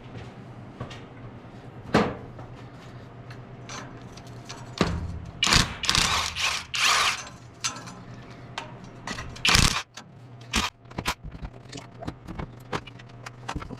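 Ratchet wrench clicking in bursts and metal tools clanking while the cylinder-head bolts of a 1954 International R-110 truck engine are loosened. There are several louder stretches of rapid ratcheting about halfway through, over a faint steady hum.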